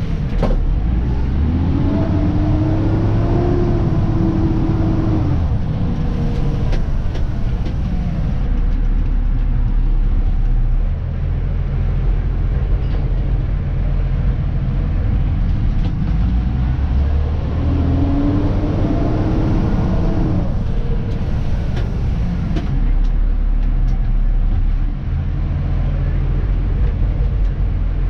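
Dennis Elite 2 garbage truck's diesel engine heard from the cab, running steadily, with its pitch rising twice as it speeds up, about fifteen seconds apart. A few sharp knocks fall in between.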